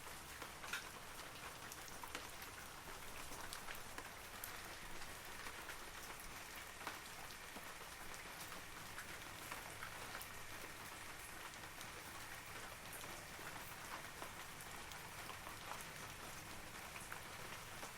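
Steady rain falling on forest trees, a soft even patter with many individual droplets ticking throughout.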